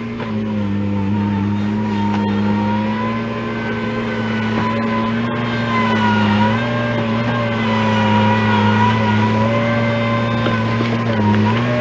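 An engine running steadily, its pitch dipping and rising slightly as the load changes.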